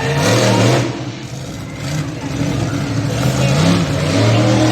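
Monster truck engine revving hard, its pitch climbing and dropping several times.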